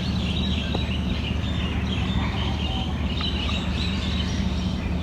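Many small birds chirping and twittering, quick overlapping chirps over a steady low rumble.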